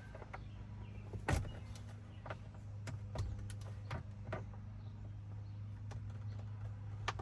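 Scattered light clicks and knocks from hands and tools working at a pickup's steering wheel and horn pad, over a steady low hum.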